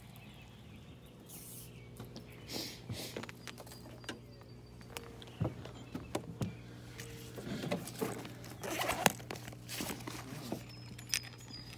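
Scattered knocks, clicks and rustles of gear and hands moving about in a small fishing boat, over a steady low hum.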